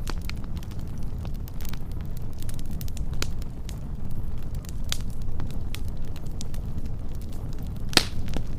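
Wood fire burning, with a steady low rumble and scattered sharp crackles and pops. The loudest pop comes near the end.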